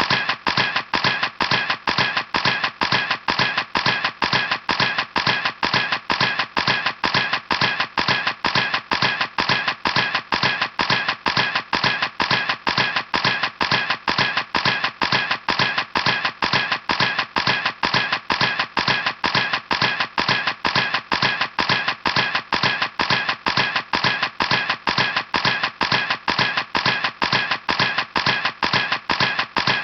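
Camera shutter firing over and over at a steady rate, about four sharp clicks a second, like continuous burst shooting.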